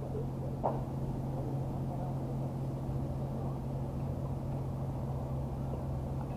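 Steady low engine hum with a single short knock just under a second in.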